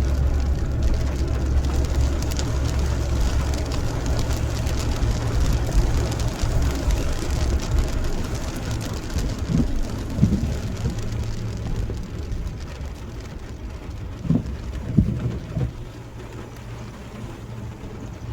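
Steady rain with a deep low rumble underneath that slowly dies away, and a few short low knocks in the second half.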